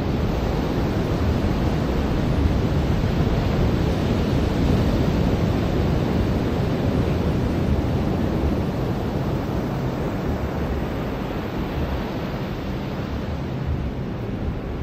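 Ocean surf washing onto a beach: a steady, deep rush of breaking waves that swells a little in the first half and eases slightly toward the end.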